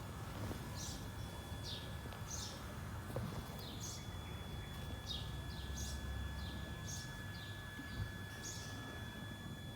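A bird calling over and over, each call a short high note sliding downward, repeated about once every three-quarters of a second. Beneath it runs a low steady rumble and a faint steady high whine.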